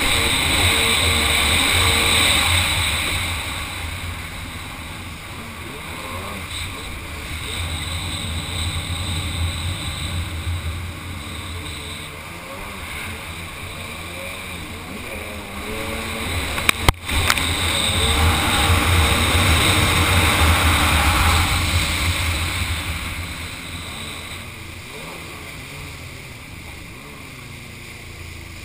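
Kawasaki 800 SX-R stand-up jet ski's two-stroke twin engine running on the water, opened up loud at the start, easing off, then opened up again after a short sharp knock about halfway through, and easing off near the end, with wind and water rushing past.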